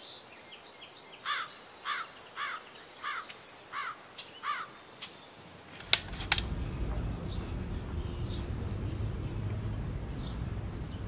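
Outdoor ambience: a bird calls a quick series of about six short chirps, each sweeping downward. About six seconds in, after a click, a steady low rumble of outdoor noise takes over.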